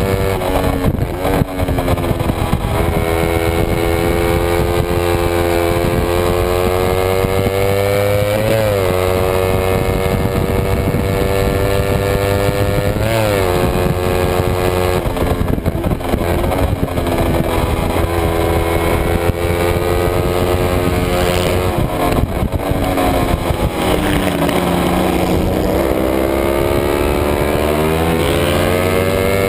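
Kawasaki Ninja 250's parallel-twin engine at racing revs, heard onboard. Its pitch climbs steadily under acceleration and jumps and falls sharply a few times with gear changes.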